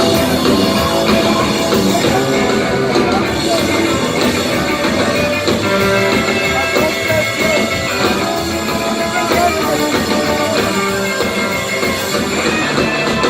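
Rockabilly band playing an instrumental break with no singing: lead electric guitar over a drum kit, its notes bending in pitch.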